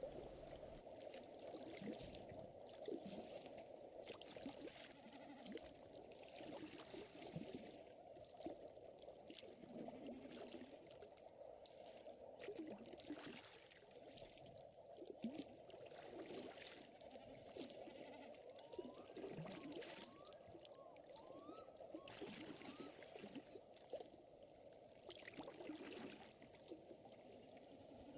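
Faint lakeside nature ambience: a steady wash of trickling, lapping water with scattered soft crackles from a wood fire. A few faint short rising chirps come in about two-thirds of the way through.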